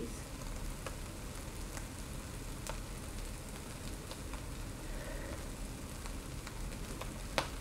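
Migas of scrambled eggs, ham, tomatoes and corn tortillas sizzling in a skillet over the heat: a steady crackle with scattered small pops, and one sharper click near the end.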